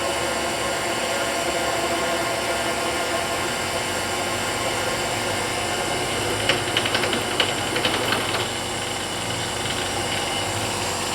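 CNC milling machine running steadily, with a cluster of short clicks and rattles about two-thirds of the way through.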